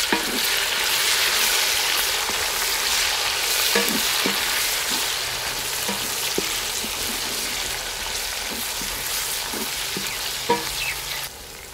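Tomatoes and green chillies frying in hot oil with browned onions, sizzling steadily while a wooden spatula stirs them and knocks on the steel pot now and then. The sizzle cuts off abruptly near the end.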